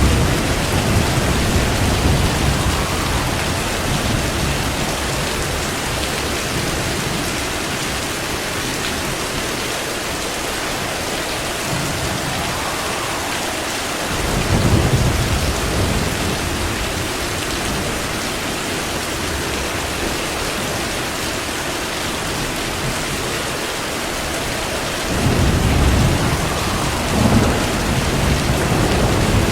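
Steady heavy rain with rolls of thunder: deep rumbles swell at the start, again about halfway through, and once more near the end, with a sharper crack among the last.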